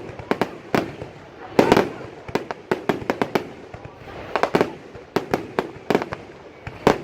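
Fireworks going off in a rapid, uneven string of sharp bangs, several a second, each trailing a short echo.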